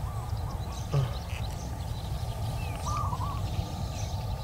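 Birds chirping in two short runs of a few quick notes, about three seconds apart, over a steady low background noise, with one brief falling sound about a second in.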